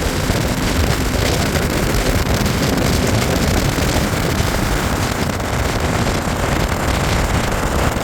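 Steady road noise of a vehicle under way, with heavy wind buffeting on the microphone.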